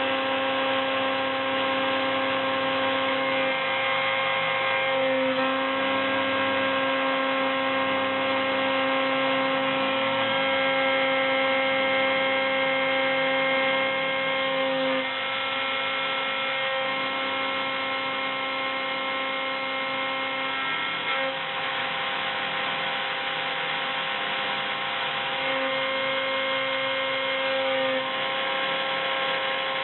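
CNC mill running a 3 mm carbide end mill through 0.8 mm copper foil: a steady whine of several held tones. Some tones drop out and come back every few seconds as the machine's moves change.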